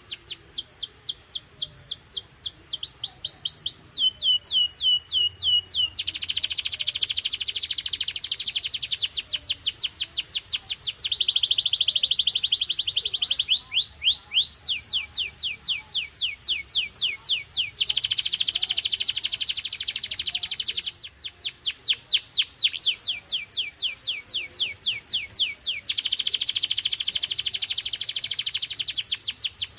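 Canary singing a continuous song of fast trills, each tour a run of quick, high, downward-sweeping notes. It switches every few seconds between sparser trills and louder, denser rolls.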